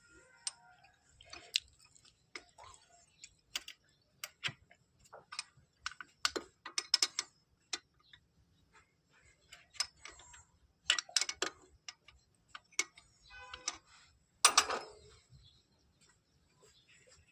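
Hand tools and metal parts clicking and clinking irregularly during work on a car's carburetor, with a short rapid run of clicks about three-quarters through and a louder clank just after it.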